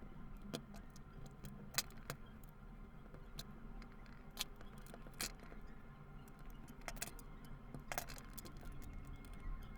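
Scattered light clicks and metallic knocks at irregular intervals over a low hum: small metal parts and tools being handled during a vacuum cleaner motor repair.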